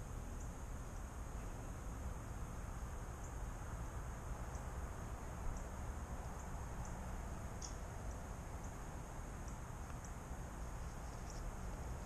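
Faint, short, high chip calls from small birds, scattered irregularly about once a second, over a steady low outdoor rumble.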